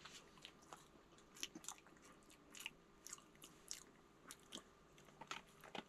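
Faint chewing: a person eating a mouthful of baked potato, with soft, irregular mouth clicks.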